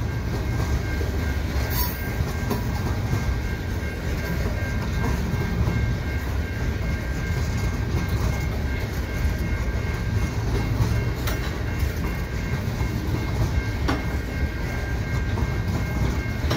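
Freight train of new covered hopper cars rolling slowly past: a steady low rumble of steel wheels on the rails, with a few faint clicks and a faint steady high tone over it.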